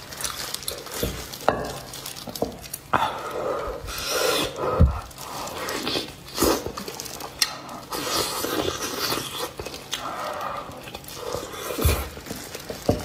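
Close-miked eating: chewing, gnawing and wet smacking on braised beef hoof in spicy sauce, with irregular sharp clicks and sucking sounds.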